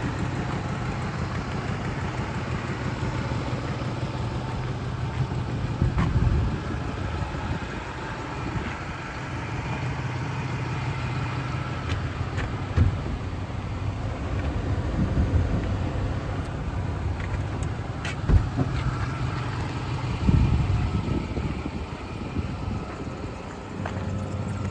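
2007 Ford F-150 pickup idling with a steady low hum, with a few sharp knocks and thumps scattered through it.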